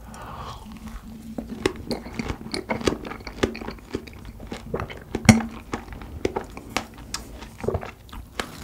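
Close-miked chewing of a large strawberry topped with whipped cream: a quick run of short clicks and smacks, the loudest about five seconds in.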